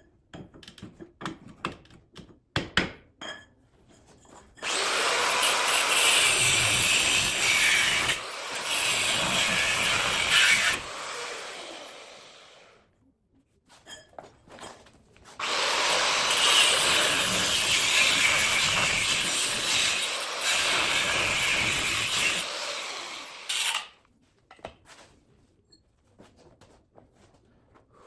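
Handheld power tool running in two long bursts of about seven and eight seconds, with small clicks and knocks in the pauses around them.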